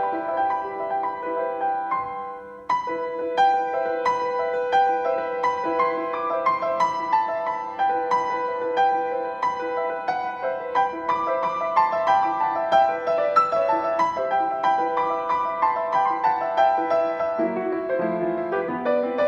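Solo piano playing a slow, lyrical piece, with notes struck and left to ring. There is a brief lull about two and a half seconds in, then the playing comes back in strongly.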